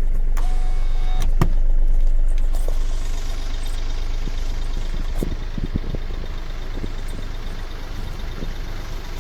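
Car engine running with a steady low rumble, with a single sharp click about a second and a half in.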